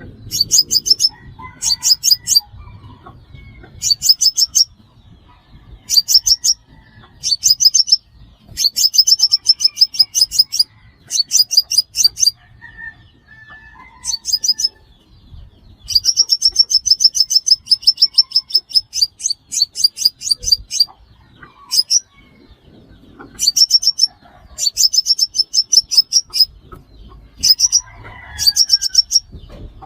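Sunbird song: repeated bursts of very rapid, high, thin ticking trills. Each burst lasts from under a second to a few seconds, with short pauses between, and one longer run in the middle. It is a recorded call of the kind played to lure the bird into a trap.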